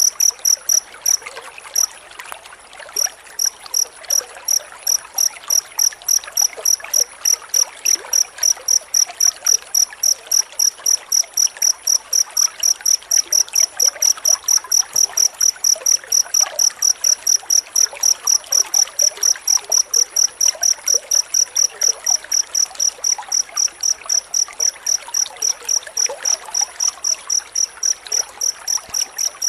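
Cricket chirping in a fast, even pulse of about five chirps a second, with a short break about two seconds in, over a faint steady hiss.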